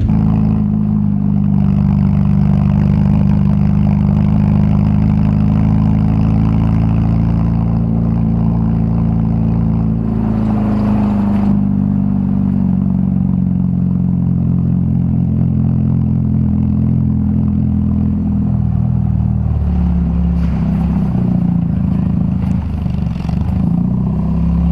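Volkswagen Gol G2's AP four-cylinder engine running through a straight-pipe exhaust while driving, a steady drone whose pitch shifts about ten seconds in and again near twenty seconds.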